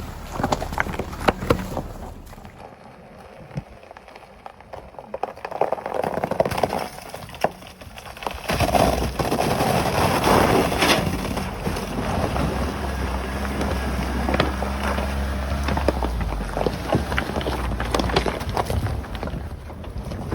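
Pickup truck driving over a frozen creek, its tyres crunching and breaking through ice and knocking on stones, with the engine running low and steady under load through the middle stretch.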